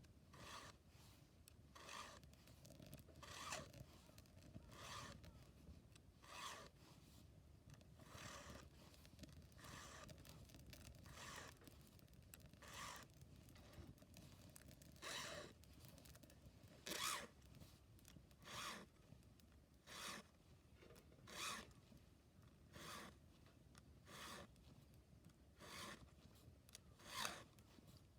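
Chainsaw chain being sharpened with a file: short rasping file strokes at a steady pace, about one every second and a half.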